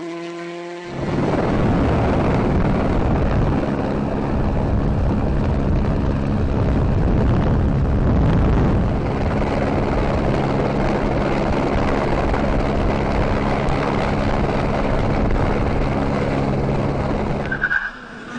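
Rally car running hard at speed, its engine note almost buried under loud tyre and road noise, starting abruptly about a second in. Near the end the noise drops away and a short engine note rises and falls.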